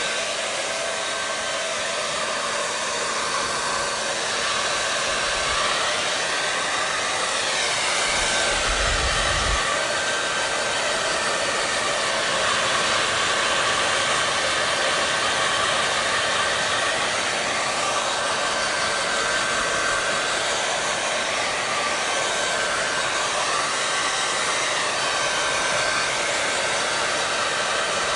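Hair dryer blowing steadily: a constant rush of air with a faint steady whine. The tone of the rush shifts slowly in places, and there is a brief low rumble about nine seconds in.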